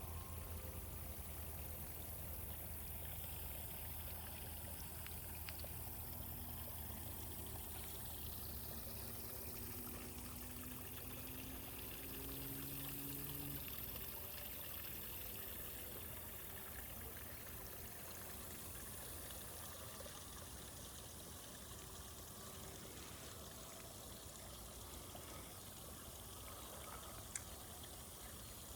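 Steady, faint sound of running water, like a flowing stream.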